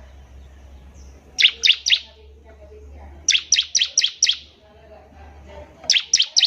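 Bar-winged prinia (ciblek) singing: three bursts of rapid, sharp, high notes, each note sweeping downward. The bursts come about a second and a half in, past the middle and near the end, each a few notes long, over a faint low hum.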